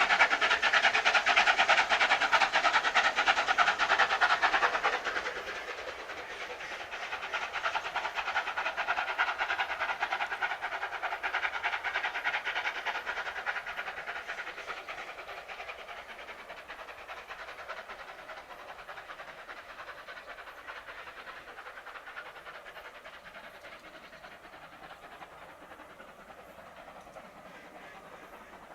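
Steam-hauled train passing, its carriage wheels clattering on the rail joints. Loud for the first few seconds, then it dies away into the distance.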